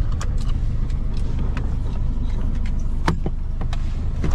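Car moving slowly with its engine running, a steady low rumble with a few small clicks.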